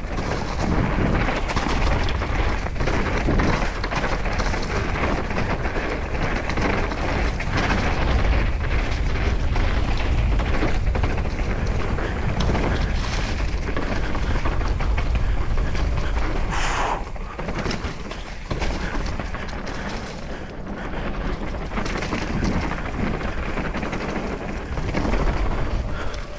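Wind buffeting the camera's microphone, with tyre noise on a dirt trail and knocks and rattles from a Trek Slash full-suspension mountain bike riding down rough ground. It eases briefly about two-thirds of the way through.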